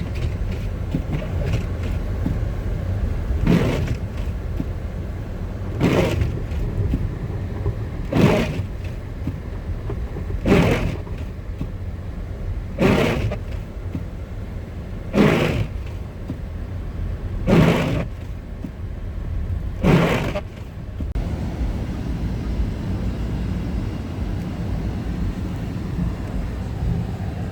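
Steady low road rumble of a car heard from inside the cabin, with windshield wipers sweeping at an even pace, about one stroke every two and a half seconds, eight strokes in all. The wipers stop about three quarters of the way through while the rumble goes on.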